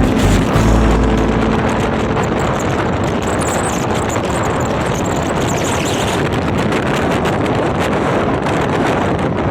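Passenger express train running at speed: a steady loud rumble and rattle of wheels on the rails, with wind buffeting the microphone.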